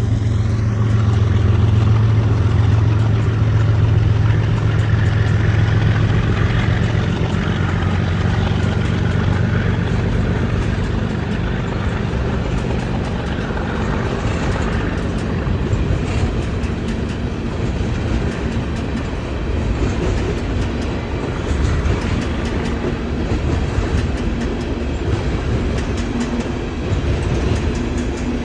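Diesel-electric freight locomotives passing, a deep engine rumble for the first ten seconds or so. It eases into the rolling clatter of freight cars' wheels over the rail joints.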